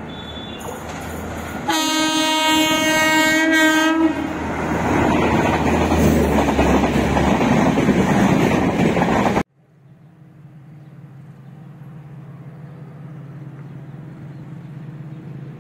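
A diesel-hauled passenger train approaching and sounding one long horn note for about two seconds, then its coaches passing close in a loud rush of wheel and rail noise. The noise stops abruptly about nine and a half seconds in, giving way to the steady hum of a distant diesel locomotive that slowly grows louder as it approaches.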